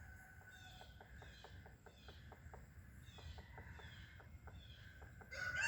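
Faint, quick irregular knocks of a woodpecker pecking at wood, with a small bird repeating short falling chirps. Near the end a rooster starts crowing, much louder than the rest.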